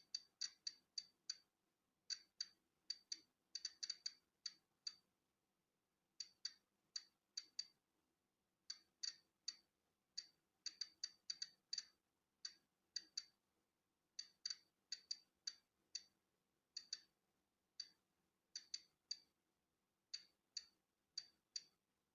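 Polon EKO-C digital Geiger counter clicking at random, uneven intervals, roughly two sharp high clicks a second, now bunched, now spaced out. Each click marks one count of natural background radiation.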